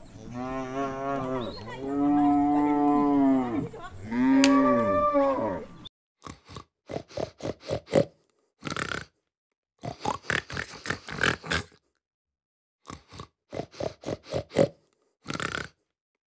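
A cow moos three times in long calls whose pitch rises and falls, the last two loudest. A pig then grunts in short clusters of quick bursts, with silent gaps between the clusters.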